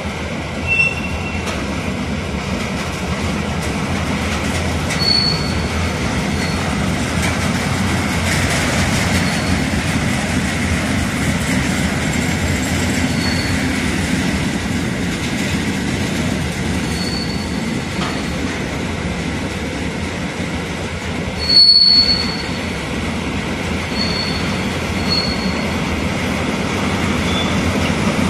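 Freight train of tank wagons rolling past with a steady low rumble of wheels on track. Brief high-pitched squeals come now and then, the loudest about three-quarters of the way through.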